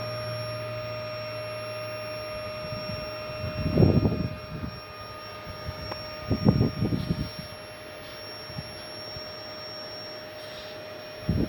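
A steady, thin mechanical hum with a few high tones, like a small motor running. Three short, low rumbling gusts of wind buffet the microphone, about four seconds in, near the middle and at the very end.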